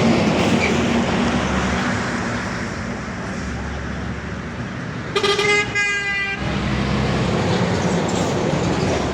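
Road traffic with a heavy vehicle's engine running, and a vehicle horn sounding once for over a second about five seconds in.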